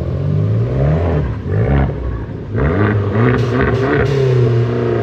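A car engine revving and accelerating away, its pitch rising and falling several times.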